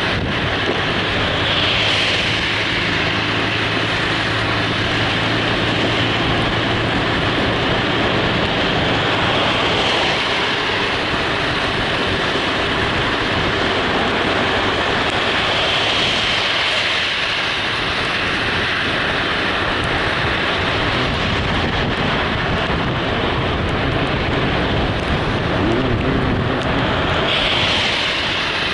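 Steady road and wind noise of a moving vehicle, with a low hum and a few brief swells.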